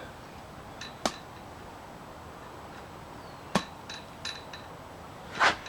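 Scored laminated windshield glass being bent and snapped along the cut line: three sharp cracks, about a second in, midway and loudest near the end, with a few fainter ticks between them.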